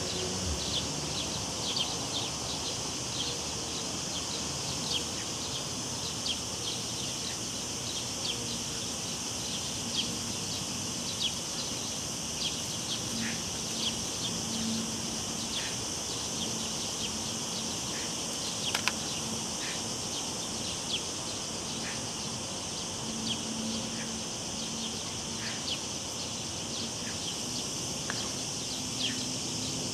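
Cicadas droning steadily and high, with many short, high chirps scattered over it and a low, even wash of river water beneath.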